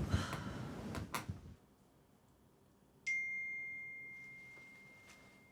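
A few faint knocks die away in the first second or so, then near silence. About three seconds in, a single high bell-like chime strikes once and rings on, slowly fading.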